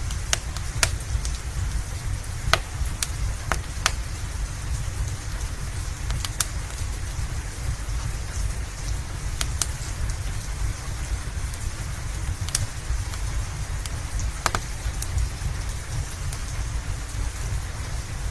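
Steady rain falling, with a low rumble beneath it and scattered sharp pops and crackles from a wood fire in a fireplace.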